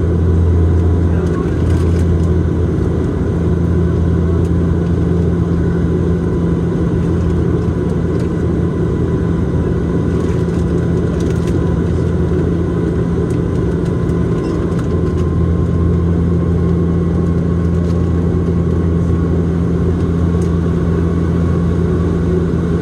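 Steady cabin drone of a Bombardier Dash 8-Q400 in flight. The twin turboprop engines and propellers make a constant low hum under a wash of airflow noise.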